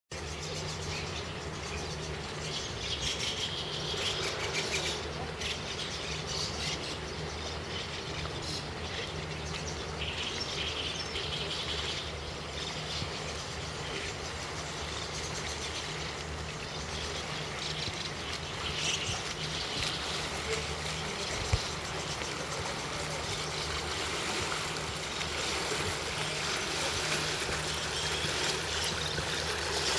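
Steady outdoor rush of water and wind with a low steady hum underneath, and a single sharp click about two-thirds of the way through.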